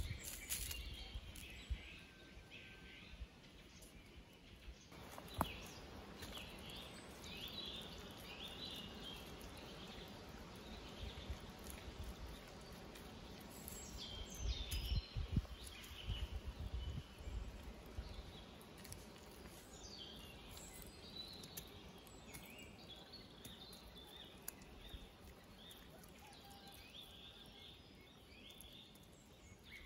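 Small birds chirping and calling in short, scattered phrases, over a low background hiss, with a few knocks and thumps: one sharp knock about five seconds in and a cluster of duller thumps around the middle.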